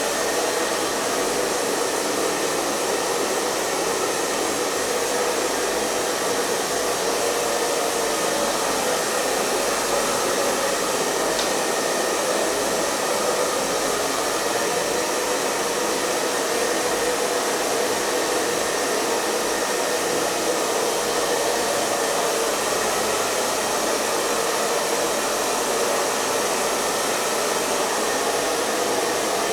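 Hair dryer running steadily: an even rush of blown air over the faint hum of its motor, with no change in speed.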